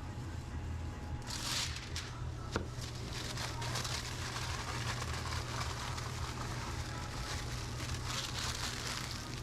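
Restaurant kitchen noise: a steady low hum under a crackling hiss, with a sharp click about two and a half seconds in.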